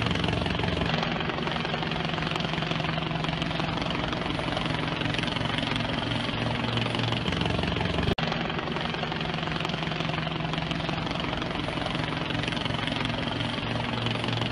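A steady engine drone with a low hum, broken by a short cut about eight seconds in.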